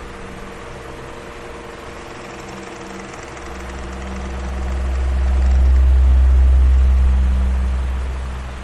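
Electric fan running with a steady rush of air and a faint motor hum. Its low rumble swells up from about halfway, peaks, then fades again near the end.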